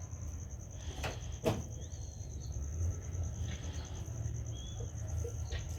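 A cricket trilling steadily, a fast even pulsing high tone, with two sharp knocks about a second in and a few brief bird chirps over a low rumble.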